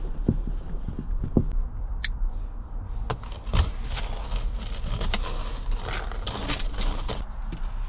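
Iron chain and metal hook clinking and rattling in irregular clicks and knocks as they are handled and fitted to a homemade heating stove, over a low steady hum.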